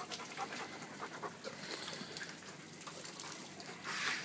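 Dog panting rapidly, the fear panting of a dog frightened by a thunderstorm, with a louder burst of noise near the end.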